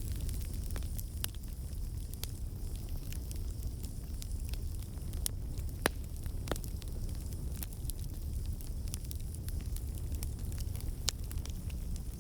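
Campfire burning with a steady low rumble and scattered sharp crackles and pops, a few louder pops now and then.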